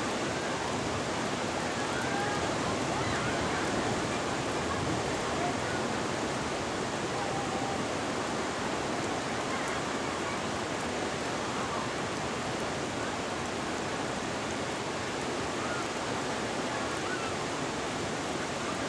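Ocean surf breaking on a shore: a steady, even rush of wave noise without distinct single crashes.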